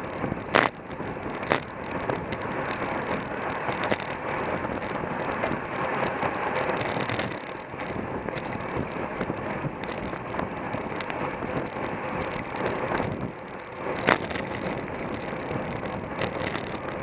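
Wind rushing over the microphone and the road noise of a racing bicycle at speed, with a few sharp knocks: one about half a second in, another at about a second and a half, and one at about fourteen seconds.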